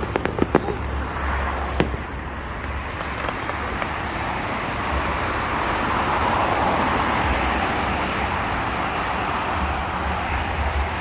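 A few sharp firework bangs in the first two seconds, then a steady rushing noise that swells in the middle, like road traffic going by.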